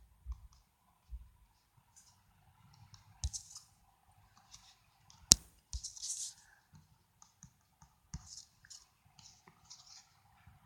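Scattered light clicks and soft swishes of someone colouring in a picture on a device, with one sharper click about five seconds in.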